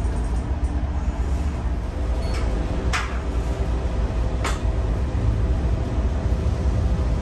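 Stadler FLIRT diesel multiple unit commuter train running with a steady low rumble, and two sharp knocks about a second and a half apart near the middle.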